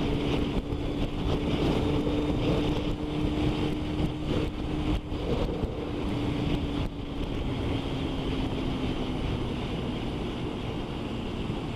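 Motorcycle riding at speed: wind noise over the microphone with the steady engine note underneath, the engine note sinking slightly in pitch and fading later on as the bike eases off.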